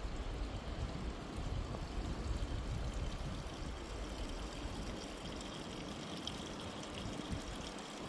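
Wind blowing steadily across the mountainside, with low rumbling gusts buffeting the microphone.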